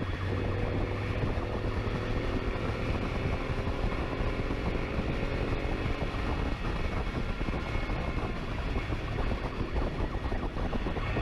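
Motorcycle engine running at speed under heavy wind rush, the engine note climbing slowly in the first half.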